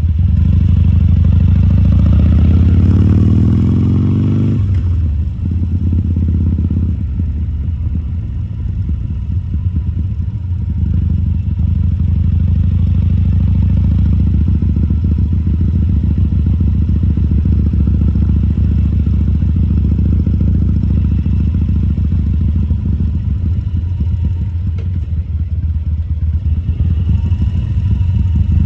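2014 Harley-Davidson Sportster XL1200C's air-cooled V-twin engine pulling away with its pitch rising for a few seconds. The revs drop sharply about five seconds in, and it runs steadily at low revs after that.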